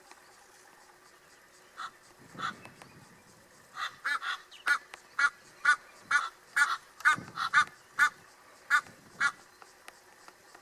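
A bird calling: two or three short calls, then a quick run of about a dozen short, pitched calls at roughly two a second that stops about a second before the end.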